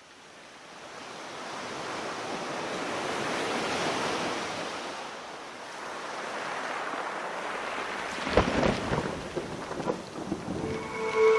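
Steady rain ambience fading in from silence. About eight seconds in a thunderclap breaks with a low rumble and crackling. Sustained music tones come in near the end.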